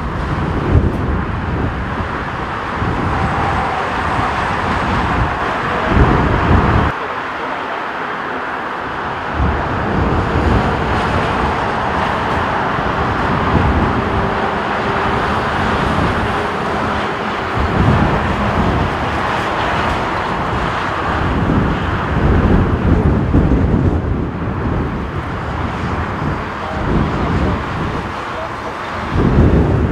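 Strong typhoon gusts buffeting the microphone in uneven low rumbles, over the steady rushing of a jet airliner's engines on approach in windshear.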